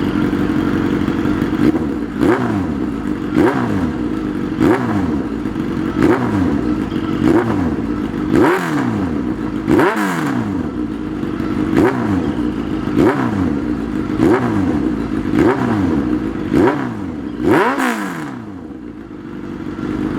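Suzuki GSX-R1000's inline-four running through an aftermarket M4 GP exhaust just after a cold start. It idles steadily and is revved in about a dozen quick throttle blips, roughly one every second and a quarter. Each rev rises sharply and falls straight back, and the engine drops back to plain idle near the end.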